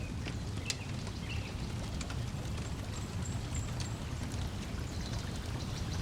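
Wood fire crackling with scattered sharp pops over a steady low rush of lakeside water and breeze, with a brief high bird chirp about three seconds in.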